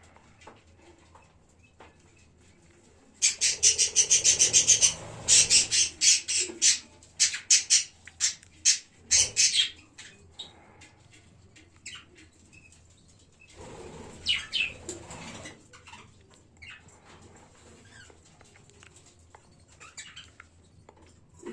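Budgerigars in a colony calling in rapid, repeated high chirps, with wings flapping. A loud burst of calls lasts several seconds, and a second, shorter burst comes later.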